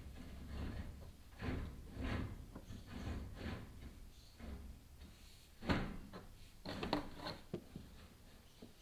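Chimney inspection camera scraping and knocking against the flue walls as it is lowered, a series of irregular scrapes with the sharpest knock about six seconds in.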